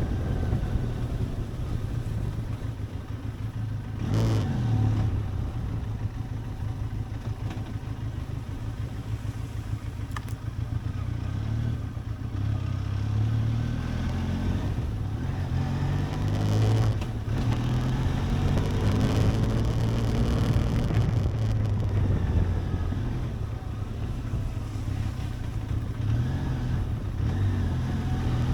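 Benelli TRK 502X parallel-twin motorcycle engine running under way, its note rising and falling with the throttle, with wind noise and a couple of brief knocks.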